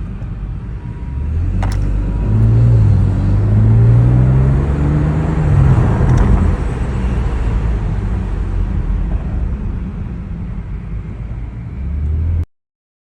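BMW G8X M car's twin-turbo straight-six running while the car drives, its engine note rising from about two seconds in and easing off after about six seconds. Two short sharp clicks are heard, one before the engine note rises and one as it peaks. The sound cuts off abruptly near the end.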